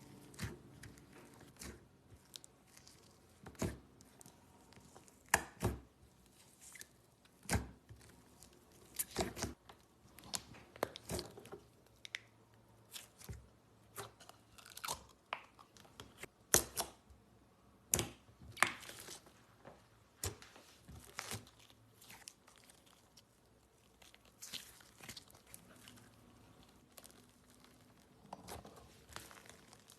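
Slime being squeezed and stretched by hand, giving irregular sharp crackles and pops, some louder than others.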